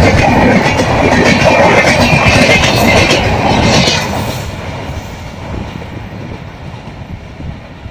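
Diesel-hauled train passing at full speed, its wheels and carriages rushing and clattering over the track. Loud for about the first four seconds, then fading steadily as the train moves away.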